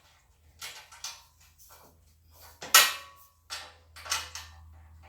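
Metal clanks and rattles as a pressure washer's steel handle is fitted to its frame and locked down with wing nuts: a handful of separate knocks, the loudest about three seconds in with a short metallic ring.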